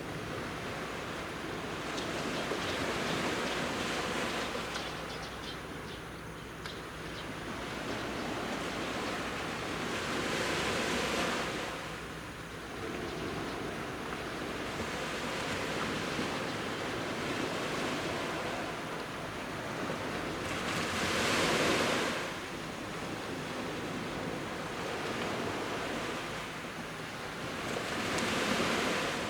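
Sea waves breaking and washing up a beach, swelling and fading in slow surges every several seconds, the strongest just past two-thirds of the way through.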